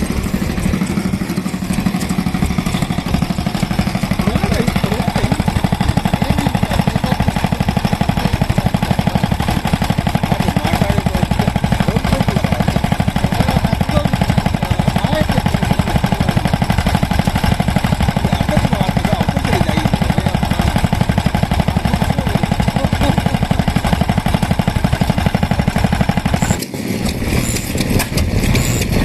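Vintage engine running steadily with a fast, even firing beat. Near the end the sound changes abruptly to a lighter, less regular engine sound.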